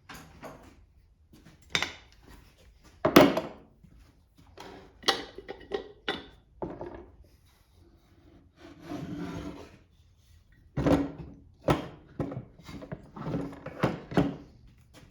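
Hand tools and engine parts being handled and set down on a workbench during small-engine disassembly: a series of knocks and clunks, the loudest about three seconds in, with a scraping slide about midway and a quick run of knocks near the end.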